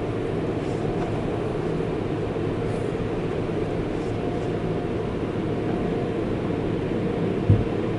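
Steady low mechanical rumble of car wash tunnel machinery, with a single short thump near the end.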